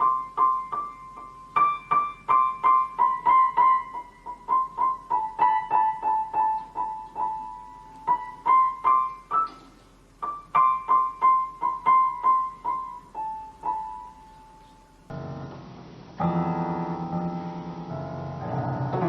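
Piano notes picked out one at a time in a high register, in quick runs of repeated and stepping notes with short pauses. About fifteen seconds in the sound changes to fuller piano playing with chords.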